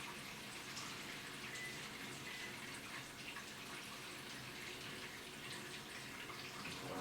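Water splashing and running inside an AQUA washing machine's tub during its cycle: a steady wash of water noise with small drips and splashes.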